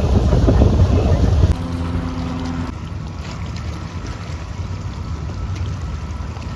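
Low steady rumble of a boat's engine with wind buffeting the microphone. About a second and a half in it changes suddenly to a brief steady pitched hum, then settles to a quieter steady rumble.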